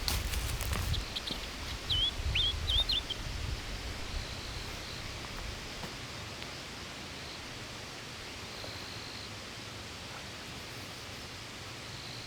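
Outdoor ambience with a steady background hiss. About two seconds in, a bird gives a quick run of five or six short chirps over a low rumble that fades after the first few seconds.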